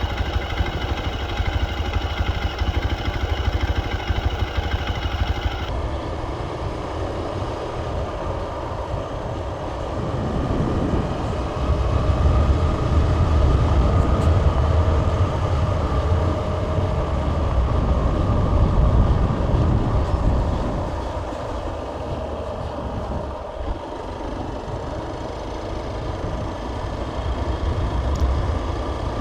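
Motorcycle running on the move, its engine rumble mixed with wind noise on the microphone, getting louder for several seconds in the middle.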